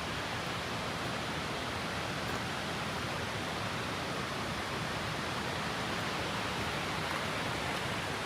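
Steady rush of flowing water, an even unbroken hiss with no distinct events.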